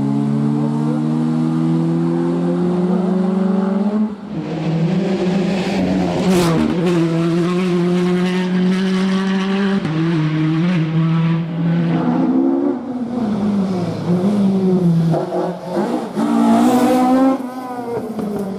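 Rally car engine driven hard on a stage, its revs climbing and dropping again and again through gear changes and lifts off the throttle. There is a sharp crack about six seconds in, and smaller cracks come later.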